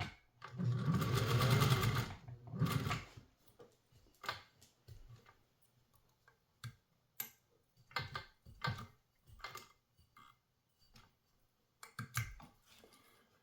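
Sewing machine stitching through thick layers of webbing strap in a run of about a second and a half, then a shorter run, followed by scattered clicks and knocks.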